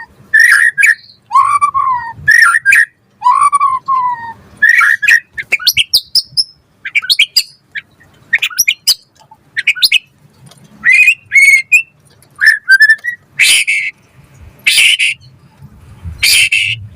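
White-rumped shama (murai batu) singing a varied song of clear whistled phrases, slurred notes and quick rising trills with short pauses between. In the last few seconds it gives a few harsh, rasping bursts.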